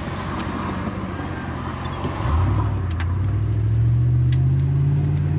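Car engine and road noise from inside the cabin; about two seconds in, the engine note grows louder and climbs slowly in pitch as the car accelerates.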